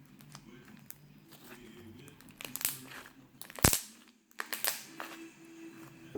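Slime being squeezed and stretched by hand, giving scattered crackles and clicks, with one loud sharp pop about halfway through.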